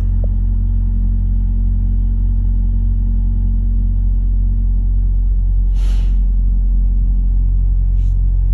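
Semi truck's diesel engine droning steadily, heard from inside the cab. A short hiss of air cuts in about six seconds in, and a fainter, briefer one near the end.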